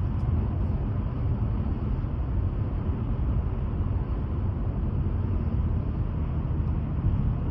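Steady low rumble of a vehicle in motion, even and unbroken.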